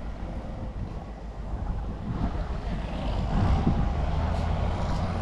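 Boat engine running, with wind buffeting the microphone; the engine rumble grows louder about three seconds in.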